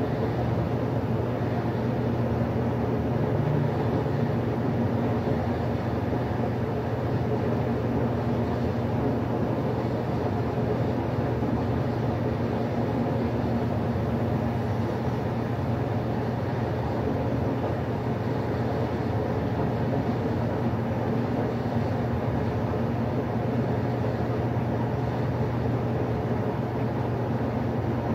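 Westinghouse washing machine running with a steady motor hum that holds even throughout, with no breaks or changes.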